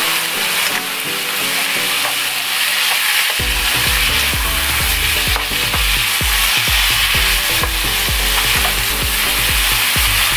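Shrimp, sliced onions and peppers sizzling in a hot frying pan while being stirred with a spoon. Background music plays under it, with a heavy bass beat coming in about three seconds in.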